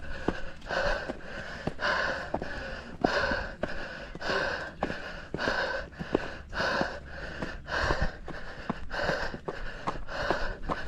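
A runner breathing hard and fast from the effort of a steep uphill trail run, quick even breaths nearly two a second, with light footfalls on the trail between them.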